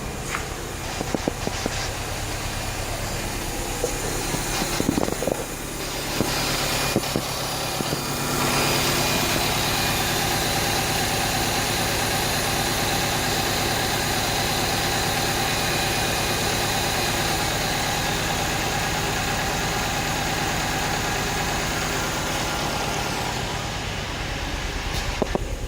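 2002 Saturn SL2's 1.9-litre DOHC inline-four engine running at a steady idle, a little louder from about eight seconds in, with a few light clicks in the first several seconds.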